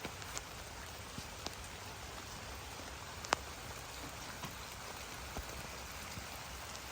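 Steady rain falling, an even hiss with scattered drops ticking sharply, one louder drop about halfway through.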